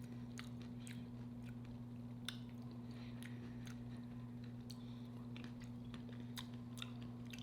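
Close-miked chewing, with scattered soft mouth clicks, over a steady low electrical hum.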